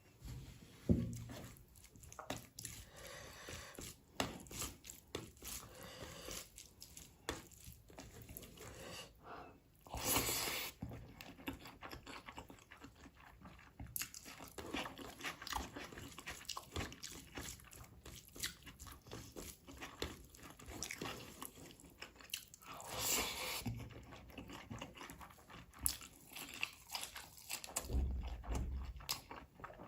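Close-miked chewing and biting through chicken and curried rice: irregular crunches, clicks and wet mouth sounds. Two louder hissing sounds come about a third and three quarters of the way through.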